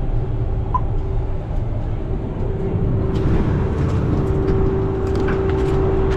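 Farm machinery engine running steadily: a low rumble with a steady mid-pitched hum over it.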